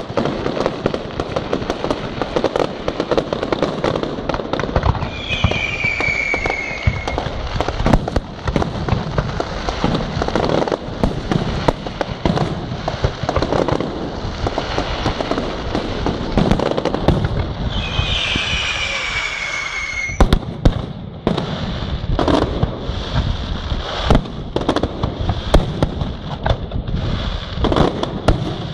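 Fireworks display: a dense, unbroken run of bangs and crackle from bursting shells, with two whistles falling in pitch about five and eighteen seconds in.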